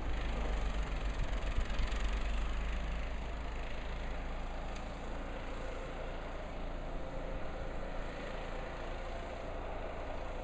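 Blizzard wind buffeting the microphone: a rumble with a hiss of blowing wind over it, gusting hardest in the first few seconds, then steadier.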